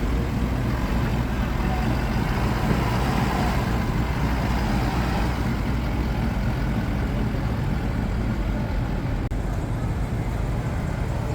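A motor vehicle's engine running steadily, with a low rumble.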